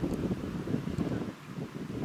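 Wind buffeting the microphone, with the low fading rumble of aerial fireworks in the gap between two shell bursts and a few faint crackles.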